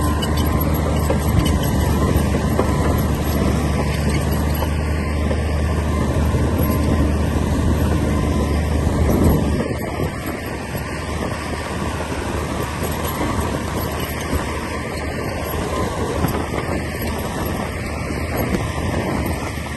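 Komatsu D60P bulldozer's diesel engine running, with a steady low engine note; about halfway through the note drops away and the machine runs on more quietly with a rougher rumble.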